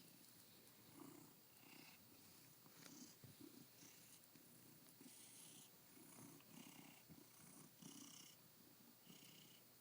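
Domestic cat purring softly and continuously.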